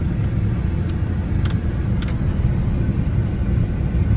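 Pickup truck driving, heard from inside the cab: a steady low rumble of engine and road noise, with two light clicks about one and a half and two seconds in.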